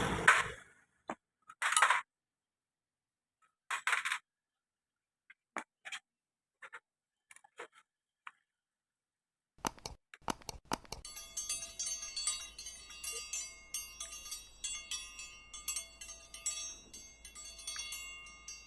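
Metal parts being handled during motorcycle engine disassembly: scattered light clicks and taps, then from about ten seconds in a long run of rapid metallic clinking and jangling with a ringing tone.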